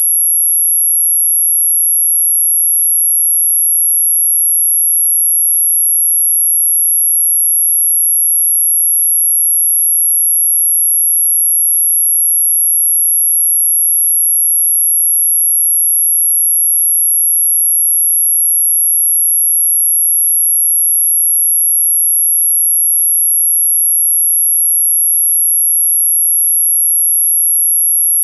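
A single steady, very high-pitched pure tone, held unbroken without any change in pitch or loudness: an electronic anti-mosquito repellent tone.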